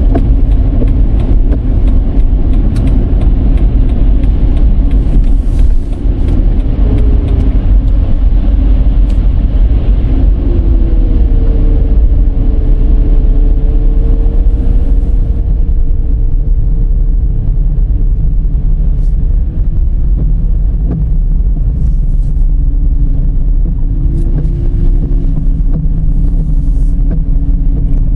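Dodge Charger driving: a loud, steady low rumble of engine and road noise, with a humming tone that drifts up and down in pitch through the middle.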